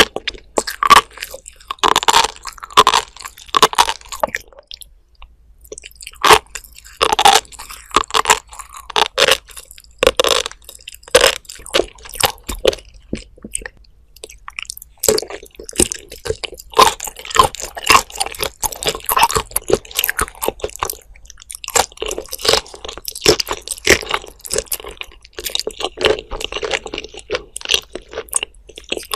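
Close-miked chewing of raw shrimp with flying fish roe: wet, squishy bites with crisp crackling, in runs broken by two short pauses.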